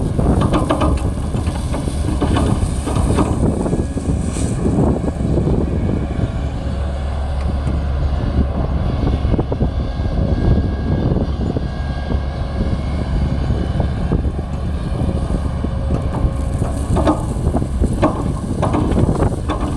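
Diesel engines of a working excavator and dump truck running steadily, with scattered metallic knocks and clanks, most of them in the first few seconds and again near the end.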